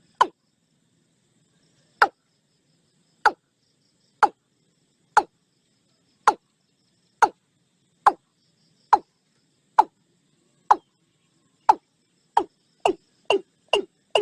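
Watercock calling: a series of short notes, each dropping quickly in pitch. They come about one a second, then quicken to about two a second near the end.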